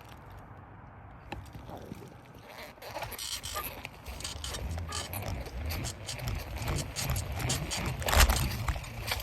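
Bicycle ridden on a flat front tyre: a rattling, scraping ride noise that builds up after about the first second, with a heavy jolt about eight seconds in.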